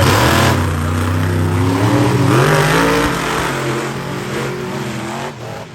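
Monster truck engine running hard and revving, its pitch rising and falling, fading toward the end.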